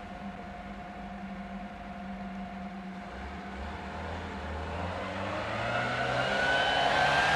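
Off-road 4x4 engine running at low revs, then revving up and getting louder over the last couple of seconds as the vehicle pulls away across the snow.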